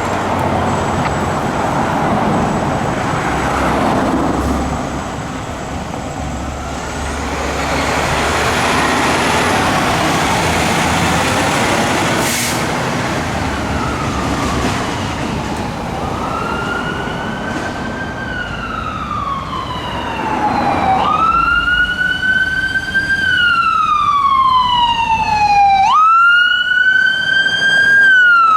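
Traffic and heavy engine noise, then about halfway through an emergency vehicle siren begins wailing. Each cycle rises quickly and slides slowly down, repeating every few seconds and growing louder toward the end.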